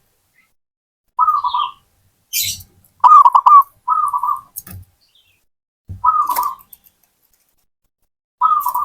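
Zebra dove (perkutut) cooing in short repeated phrases, four in all, the longest about three seconds in.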